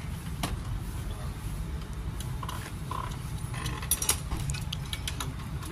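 Motorcycle helmet being handled and tried on: scattered light plastic clicks and knocks, most of them about four seconds in, over a steady low background rumble.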